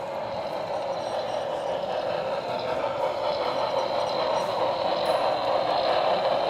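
Model train running on a layout track, a steady mechanical rolling hum that grows gradually louder as it comes closer.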